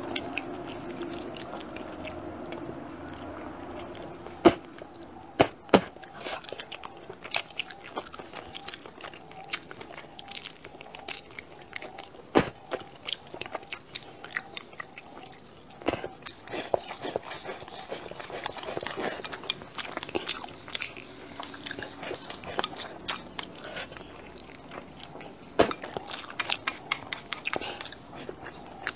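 Close-miked chewing and crunching of rice, fish and crispy fried bits, with many sharp clicks of wooden chopsticks against a ceramic bowl, a few of them loud.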